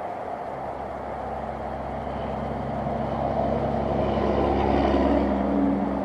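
A motor vehicle passes on a nearby road: its low engine hum grows louder, is loudest about five seconds in, then fades. A steady rush of stream water runs underneath.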